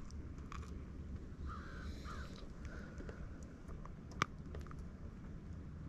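A bird calling: two short harsh calls about a second and a half in and a fainter one just after, over a steady low rumble, with one sharp click about four seconds in.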